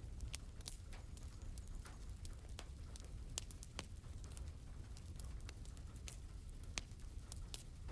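Wood fire crackling, with irregular sharp pops scattered throughout over a steady low rumble and soft rain patter. The sharpest pops come about three and a half and seven seconds in.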